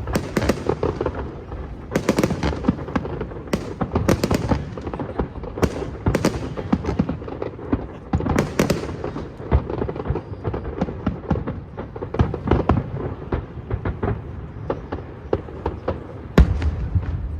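Aerial fireworks going off in a dense barrage: many overlapping booms and crackles, with one sharp, loud bang near the end.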